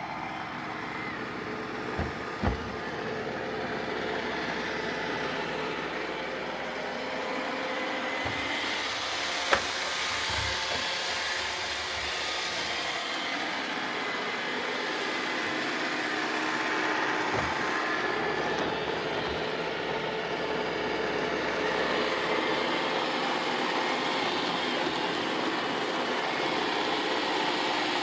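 Roomba robot vacuums running: a steady whir of vacuum motors and brushes with a faint whine, broken by a few short knocks.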